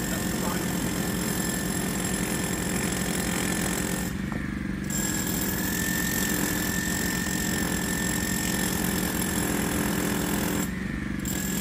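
Construction-site machinery running steadily: a continuous engine-like drone with a rapid low pulsing and a steady high whine. Its upper part drops away briefly twice.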